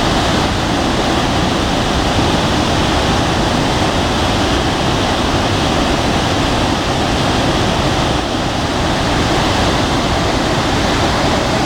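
Iguazu Falls: a huge volume of water pouring down, heard as a loud, steady, unbroken rush.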